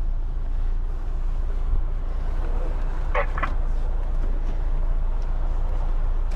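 Steady low rumble of a semi-truck's engine and road noise heard inside the cab, with two short sharp sounds about three seconds in.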